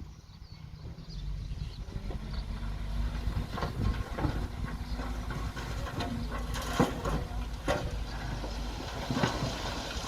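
Komatsu D20P bulldozer's diesel engine running, growing louder about a second in, with irregular clanks and knocks over the steady hum.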